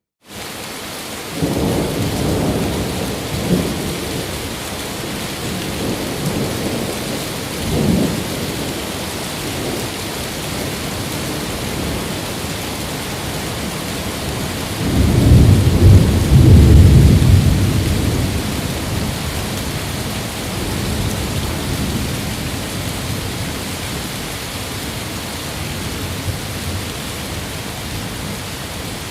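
Steady rain with rolling thunder: a rumble about a second and a half in, a shorter one near eight seconds, and a long, loudest peal from about fifteen to eighteen seconds that fades slowly.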